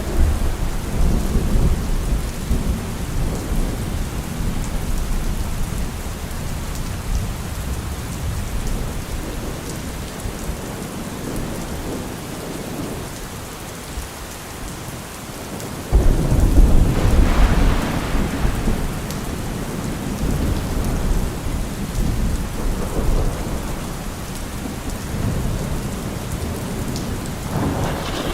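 Heavy rain falling steadily on a car roof, with thunder: a low rumble at the start that fades, a sudden loud clap about sixteen seconds in that rolls on for a few seconds, and another rumble near the end.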